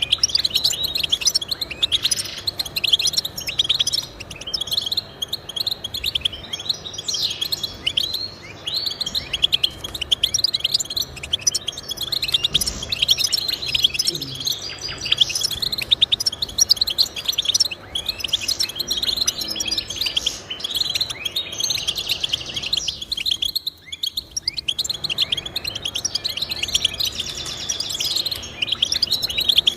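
Goldfinch singing: a fast, continuous run of high twittering chirps and trills, with a brief pause about four-fifths of the way through.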